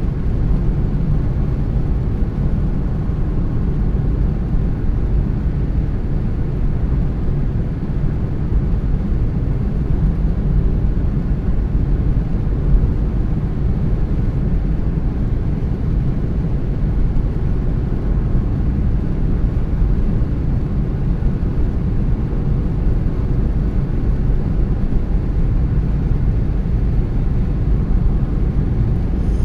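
Steady low rumble of a car driving at road speed, tyre and engine noise, unchanging throughout.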